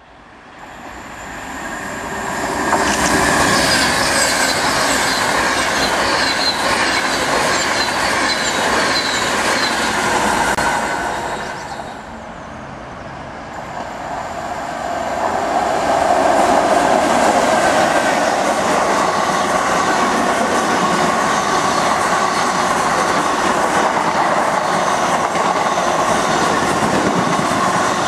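A Class 390 Pendolino electric train passes at speed, its rush of wheels and air building over the first few seconds and fading after about ten seconds. After a break, Class 87 electric locomotive 87002 comes through at speed hauling three Class 325 mail units, with loud, steady wheel-on-rail running and an electric whine.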